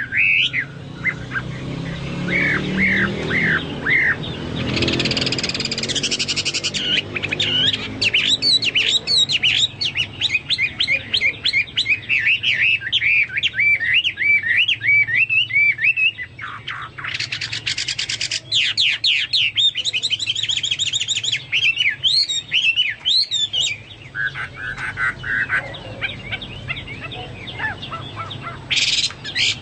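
Chinese hwamei singing in full voice: a continuous, varied song of rapid whistled phrases broken by fast trills, in a style likened to a cucak Papua or cucak mas.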